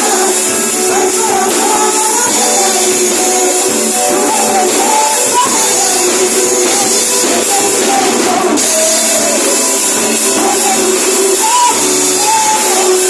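A church praise band playing a worship song, with tambourine and a wavering sung melody over it. It sounds thin, with almost no bass.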